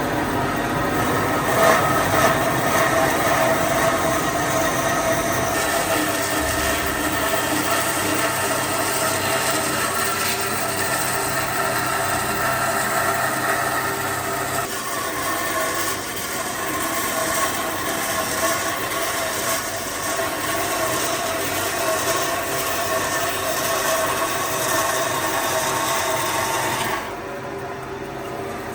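Workshop machinery running steadily, a continuous mechanical drone with several held tones that shift a little twice and drop in level near the end.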